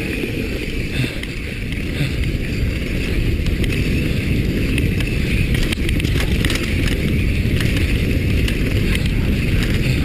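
Downhill mountain bike running fast over rough trail: a steady rumble of tyres and rattling bike with scattered knocks from the terrain, and wind on the microphone.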